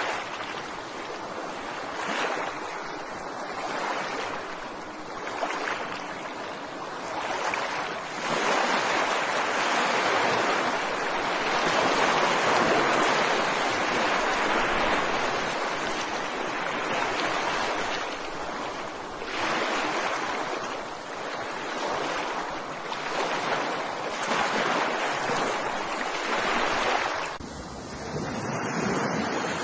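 Ocean surf: waves breaking and washing up the shore in an unbroken hiss that swells and ebbs, with a long louder surge through the middle and a brief lull near the end.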